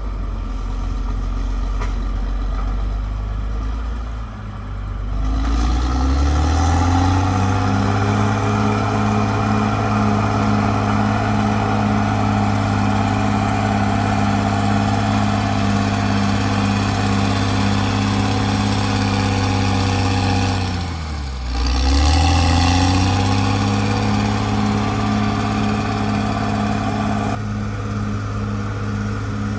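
Caterpillar D6R XL bulldozer's diesel engine running: it starts low, revs up over a couple of seconds about five seconds in and holds a steady working pitch. Around two-thirds of the way through the revs drop sharply and climb straight back.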